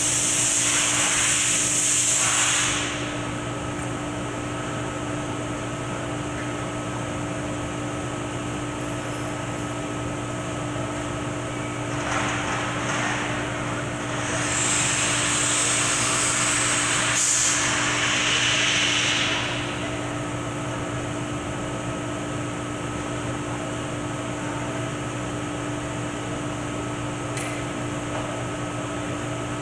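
Two long bursts of loud hissing, the first lasting about three seconds and the second about seven seconds from roughly twelve seconds in, over a steady machine hum.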